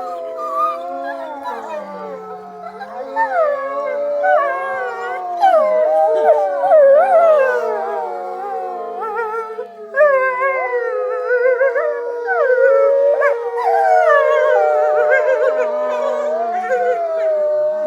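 A pack of wolves howling in chorus: several voices at once, each howl held and gliding up and down at a different pitch, with quicker wavering calls mixed in.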